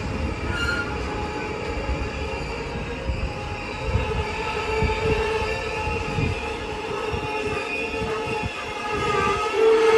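Train running on the station tracks: a low rumble with a steady, fairly high tone over it, getting louder near the end.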